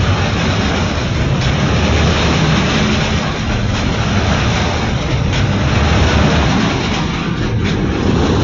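Freight train wagons rolling past close by: a loud, steady rumble of wheels on the rails with a few faint knocks.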